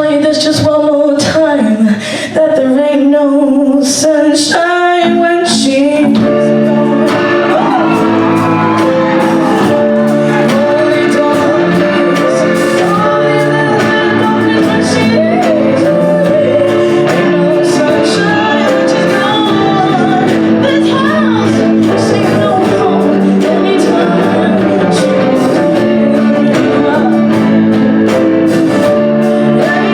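Live band performing a soul cover with singing. The first few seconds are mostly voices over a sparse backing, then about six seconds in the full band comes in with steady chords under the vocals.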